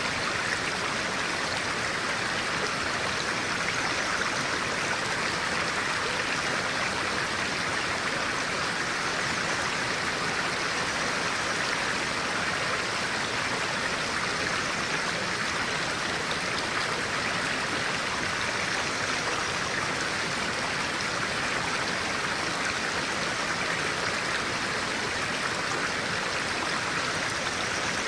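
Clear-water stream flowing, a steady, even rush of water.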